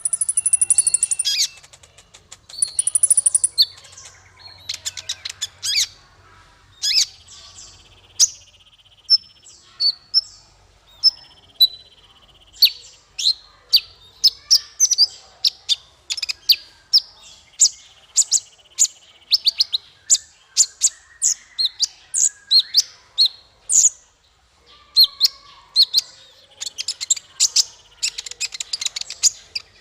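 Small songbird calling, for cage-bird song training: a long run of sharp, high chirps, several a second, mixed with short buzzy trills, with denser bursts of song at the start and near the end.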